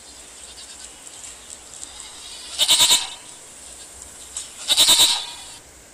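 Young goat kids bleating: two short, high-pitched bleats about two seconds apart.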